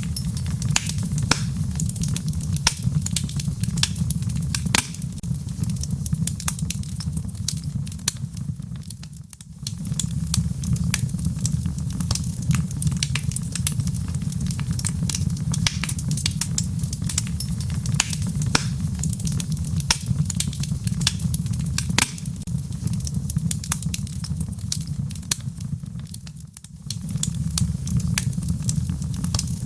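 Wood fire crackling in a fireplace: a steady low rumble of flames with frequent sharp pops and snaps. The sound dips briefly twice, about 9 and 27 seconds in.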